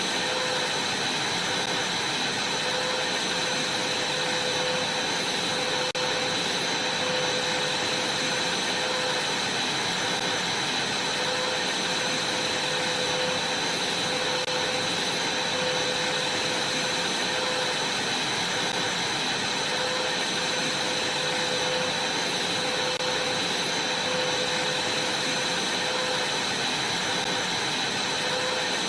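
Vacuum cleaner running steadily: an even rushing noise with a constant high whine and a lower hum.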